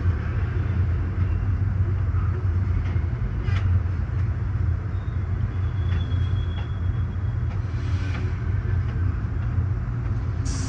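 Steady low rumble of Amtrak Superliner passenger cars rolling on the rails as two trains pass each other, heard from inside a coach, with a few faint clicks.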